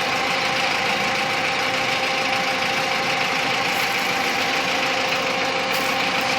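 Dongfeng crane truck's engine idling steadily, with a constant whine over the engine noise.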